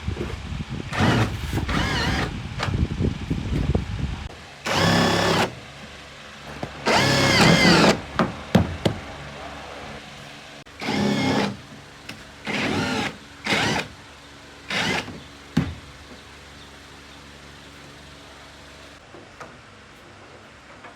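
A small electric power tool, drill-like, run in short trigger bursts of about half a second to a second, some seven times. Its whine rises and falls in pitch with each pull. After about 15 s it stops.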